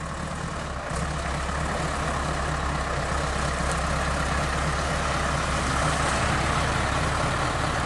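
Heavy truck's diesel engine running with a steady low hum, getting slightly louder as it goes.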